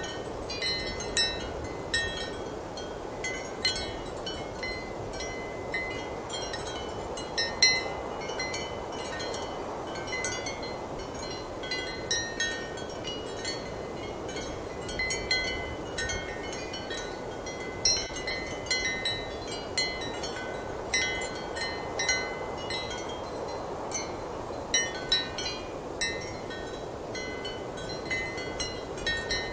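Ceramic wind chimes clinking irregularly, with frequent short ringing strikes over a steady rush of strong wind.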